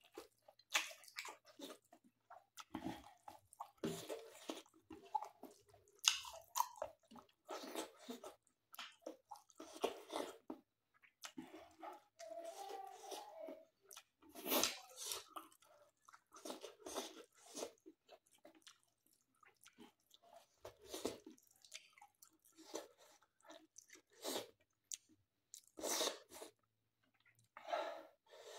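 Close-up mouth sounds of a person chewing a mouthful of mutton, rice and squash leaves, in irregular clicks and soft crunches.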